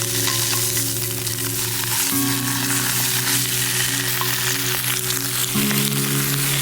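Food sizzling steadily as it grills over an open campfire or charcoal fire.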